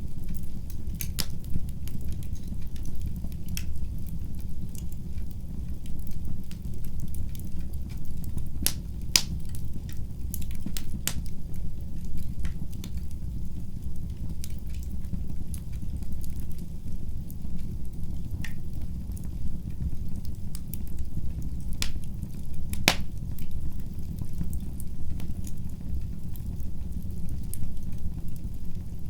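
Fire burning in a fireplace: a steady low rumble of flames with scattered sharp crackles and pops, and a couple of louder snaps about nine seconds in and again near two-thirds of the way through.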